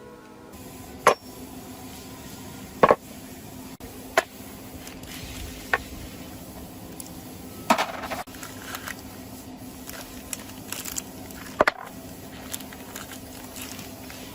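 Metal tools and engine parts clinking and knocking as they are handled, with about seven sharp separate knocks, one of them a quick double, over a low steady hum.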